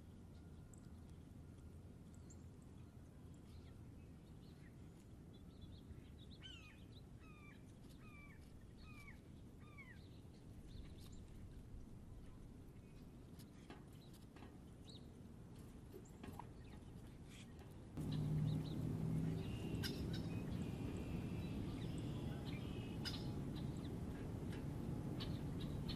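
Wild birds calling: a run of about six short, falling whistled notes, then scattered chirps. About two-thirds of the way in, the background suddenly gets louder, with a low hum and denser chirping.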